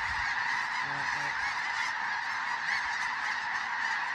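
A large flock of snow geese calling all at once, a dense, steady clamour of many overlapping voices.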